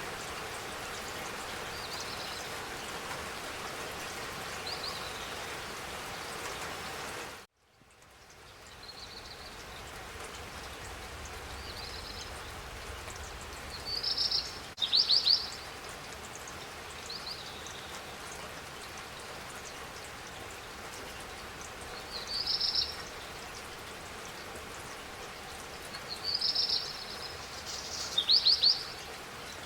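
Steady spring rain falling, with small birds chirping in short bursts throughout, the loudest chirps near the middle and near the end. About a quarter of the way in the rain cuts out abruptly and fades back in over a couple of seconds.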